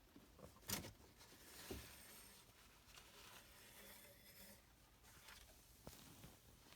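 Near silence with a few faint clicks and a soft rubbing slide, as an engine oil dipstick is drawn from its tube and handled to check the level.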